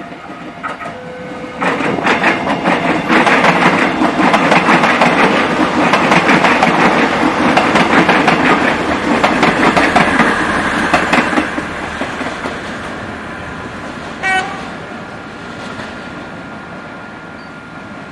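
KRDE Prameks diesel-electric multiple unit passing close by, its wheels clattering rapidly over the rail joints with a loud running rumble for about ten seconds, then fading as it pulls away. A brief high tone sounds about 14 seconds in.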